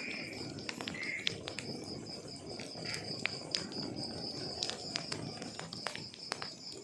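Wood fire crackling, with irregular sharp pops and snaps over a low rumble of burning logs. A steady high-pitched pulsing trill runs through it, like an insect chirping.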